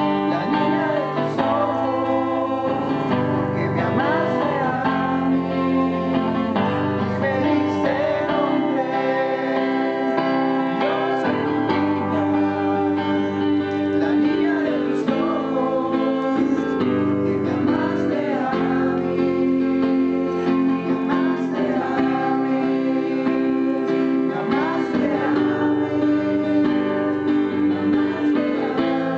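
A praise song sung to acoustic guitar strumming.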